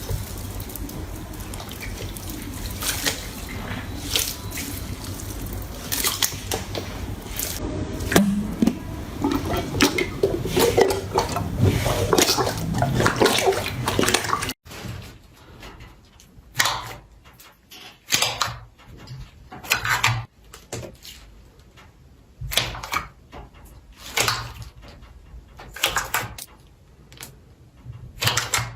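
Slime being squeezed and worked by hand: wet squishing with a dense run of sticky pops and clicks, then, after a cut about halfway through, separate squelches a second or two apart.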